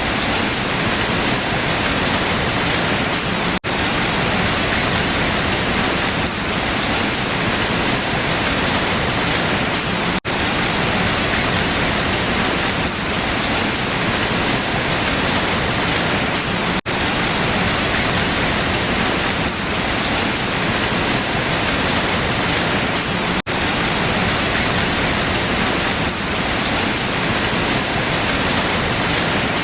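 Steady rain falling on leaves, a dense even patter. The sound drops out very briefly about every six and a half seconds.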